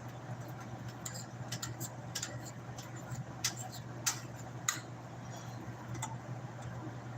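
A utensil clicking and knocking against a pan as food is stirred, a few sharp ticks every second or so, over a steady low hum.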